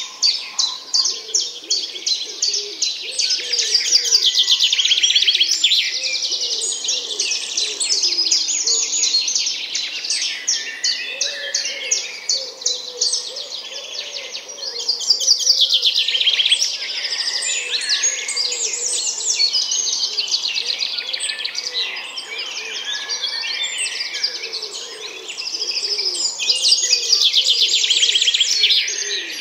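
A chorus of small songbirds chirping and trilling, with fast high trills returning every few seconds over fainter, lower warbling.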